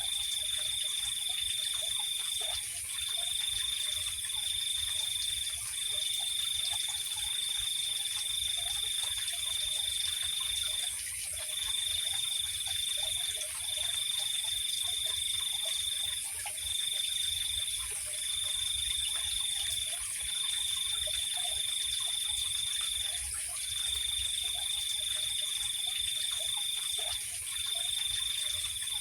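Night chorus of crickets and other insects: one high, steady trill that comes in bouts of one to four seconds with short gaps, over a continuous, even higher-pitched buzz.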